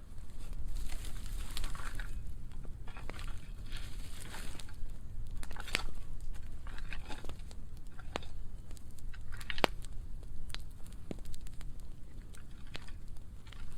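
Burning pile of dry pruning wood crackling, with irregular sharp pops over a low steady rumble of the fire.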